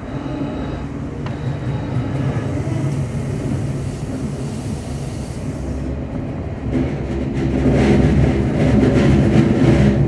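Semboku 7020-series electric train running along the line, heard inside the driver's cab: a steady low rumble of wheels and motors. It grows louder from about seven seconds in, with rapid clattering of the wheels on the rails.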